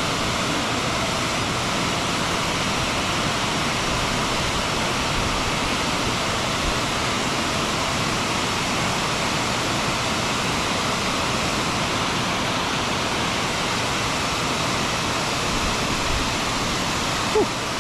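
Steady rush of fast creek water below a dam: an even, unbroken hiss of flowing water.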